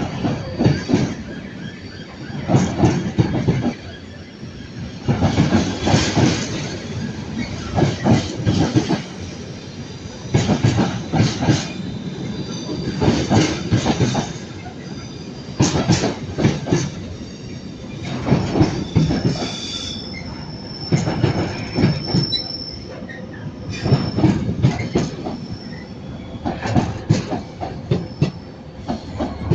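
A train rolling slowly past, its wheels clacking over rail joints and pointwork in groups every two to three seconds. High wheel squeal comes and goes, strongest about two-thirds of the way through.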